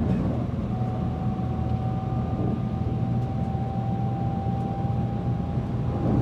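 Shinkansen N700S train heard from inside a passenger car while running: a steady low rumble, with a thin steady whine coming in about a second in.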